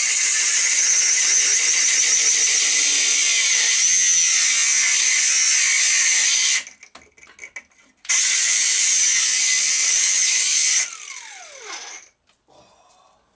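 Angle grinder cutting down a metal gearbox mount bracket: two long cuts with a loud, high hissing whine, a pause of about a second and a half between them, and the disc winding down with a falling whine near the end.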